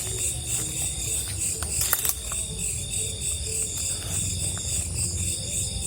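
Night insects, crickets among them, calling in a steady chorus: a high trill pulsing several times a second over a steadier, lower tone. A low rumble sits underneath, and one sharp click comes about two seconds in.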